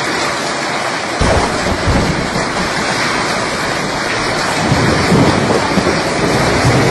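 Heavy rain pouring in a thunderstorm, a loud steady rush, with a low rumble of thunder coming in about a second in and rolling on.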